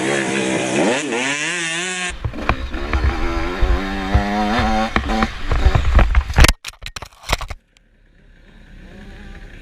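Motocross bike engine revving up, then running under load with wind buffeting on the microphone. About six and a half seconds in, the sound breaks up into crackles and drops low, leaving a faint engine slowly rising.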